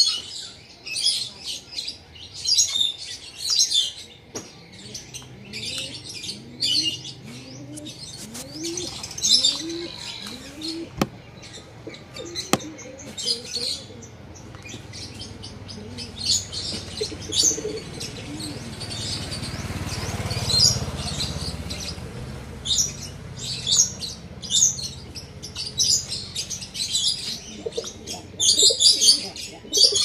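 Small birds chirping in short, high bursts about once a second, with a run of low, rising cooing notes in the first half typical of a dove. A low rumble swells and fades in the middle.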